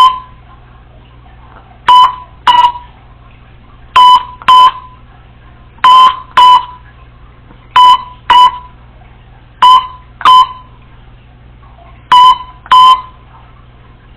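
Congo African grey parrot imitating a telephone ringing: short, loud double beeps repeated about every two seconds, seven times, with slightly uneven spacing.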